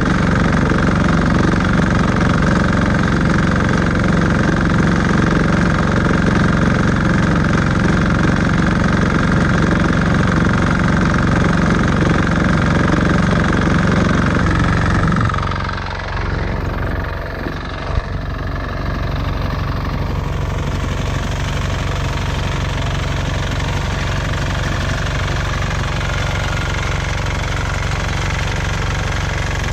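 Walk-behind tractor engine running steadily while working a vibrating potato digger. About halfway through, its note changes and it gets slightly quieter, with one short knock a few seconds later.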